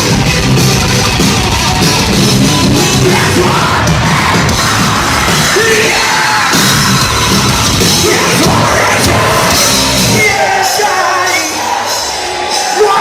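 Loud rock band with yelled vocals, heard from the crowd; the bass and drums drop out about ten seconds in.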